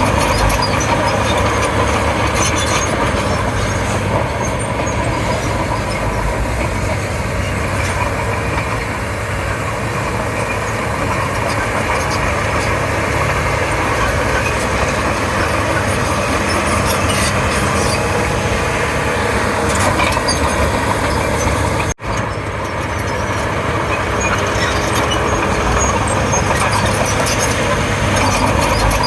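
Komatsu D31P crawler bulldozer working, its diesel engine running steadily under load with the noise of its tracks. The sound breaks off for an instant about three-quarters of the way through.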